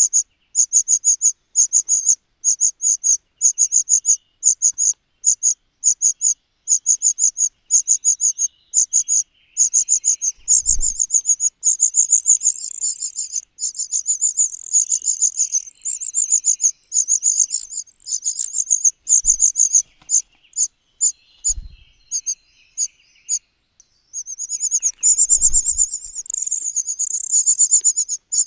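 High-pitched chirping, evenly repeated about two to three times a second, turning denser and louder from about ten seconds in. A few soft low thumps come in the second half.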